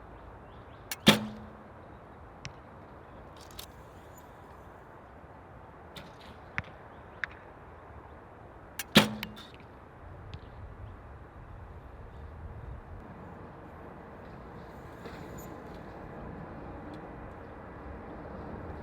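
A recurve bow with a Hoyt Epic riser shot twice, about eight seconds apart: each time a small click, then the sharp crack of the string's release and a short ring from the bow. A few faint ticks come between the shots, and wind noise rises over the second half.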